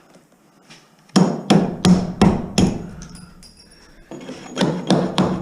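Rapid hammer blows: five sharp strikes about a third of a second apart starting about a second in, then a second, quicker run of strikes near the end.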